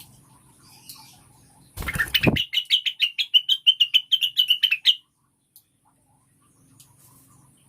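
A female cucak wilis (rengganis) calling: a fast run of sharp chirps, about eight a second, for roughly three seconds. The run opens with a short rustling burst about two seconds in.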